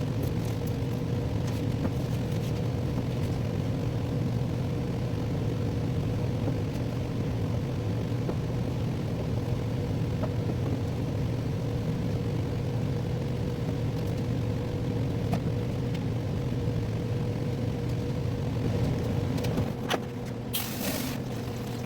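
Steady low mechanical drone with a constant hum, dropping off about twenty seconds in, followed by a brief hiss.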